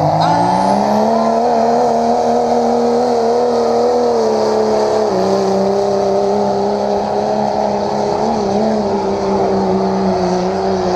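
Competition pulling truck's engine run hard at high revs during a pull. It revs up over the first second or two, holds, drops a step about five seconds in, then stays steady at full throttle.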